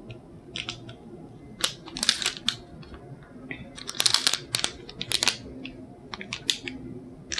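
Plastic wrapper of a packaged granola cup being handled and opened, crinkling and crackling in irregular bursts.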